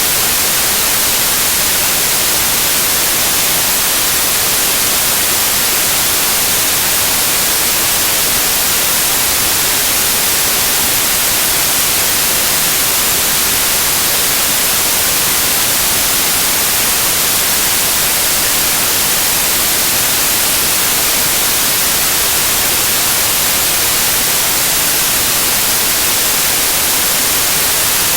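Loud, steady synthetic white noise: an even hiss with no changes, strongest in the high frequencies.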